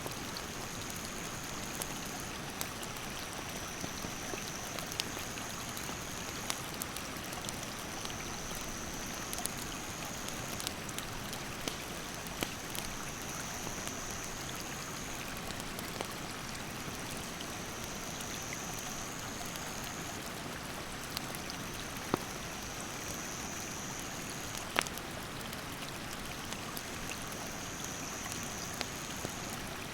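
A rushing mountain stream gives a steady wash of water noise while a wood campfire crackles with scattered sharp pops, two of them louder near the end. An insect calls over it in repeated high buzzing phrases, each about two seconds long.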